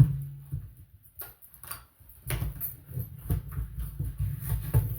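Handling noise from a toy box being opened: irregular scratching, clicking and scraping of cardboard and plastic packaging, with a few dull knocks.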